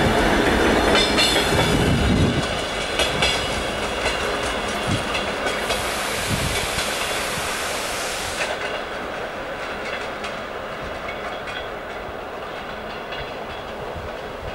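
Passenger coaches of a diesel-hauled suburban train rolling past, wheels clacking over the rail joints. The heavy rumble drops away about two seconds in as the last coach clears, and the clatter fades as the train pulls away.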